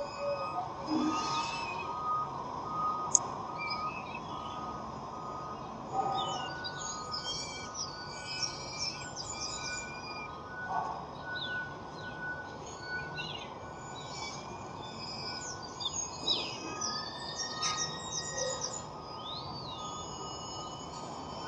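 Wild birds chirping and singing in many quick, varied notes, busiest from about six seconds in, over a steady background hiss.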